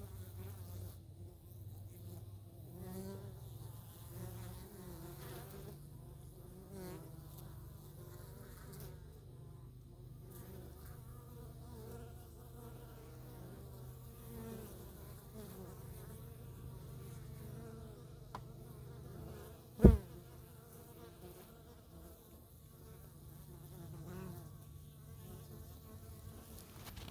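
Honey bees buzzing around an open hive: a steady low hum, with single bees passing in wavering, rising and falling drones. About twenty seconds in, one sharp, loud knock.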